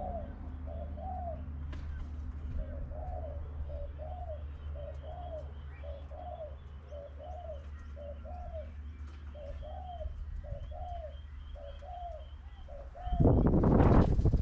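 A dove cooing in a steady run of short arched notes, a little more than one a second, over a low steady hum. Near the end a loud rushing noise swamps it for about a second.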